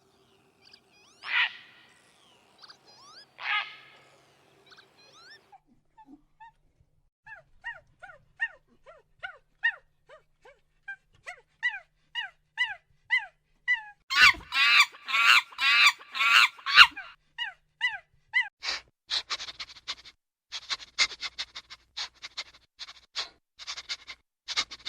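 Animal calls: two louder cries, then many short, high calls that each fall in pitch. They grow into a dense, loud chorus about halfway through and turn to rapid clicking near the end.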